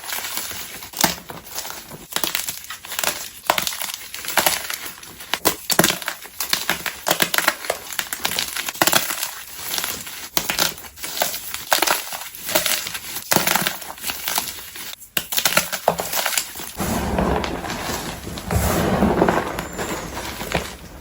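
Blocks of gym chalk being crushed: a fast run of sharp crunches and crumbles. In the last few seconds the crushing turns denser and deeper.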